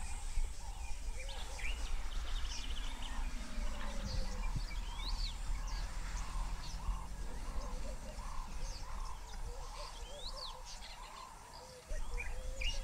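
Several birds chirping and calling, one of them repeating a short note about twice a second, over a low steady rumble.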